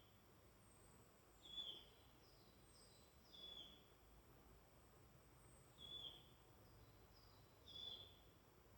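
Faint woodland birdsong: a short, falling call note repeated about every two seconds, four times, with fainter high chirps from other birds in between over a quiet forest background.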